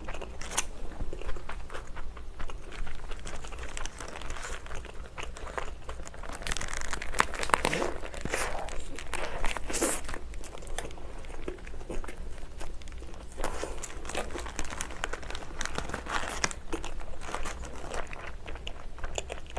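Close-miked biting and chewing of a Monster Whopper burger, with crunchy bites and its paper wrapper crinkling in the hands.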